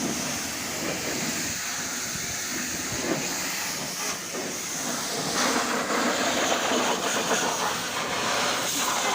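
High-pressure water jet spraying onto a car, a steady hiss.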